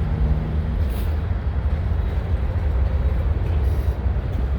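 Freight train cars rolling slowly past on the track: a steady low rumble.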